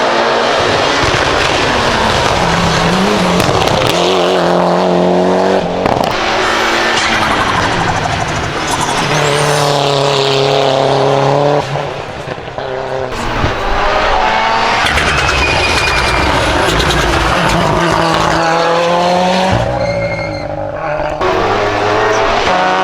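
Hillclimb race car engine at full throttle, its pitch rising and dropping again and again as it revs out and shifts gear.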